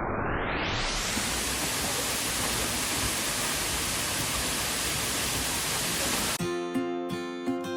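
Steady rushing noise of Minoh Falls, the waterfall, muffled at first and opening out to full brightness within the first second. About six seconds in it cuts off abruptly and strummed acoustic guitar music begins.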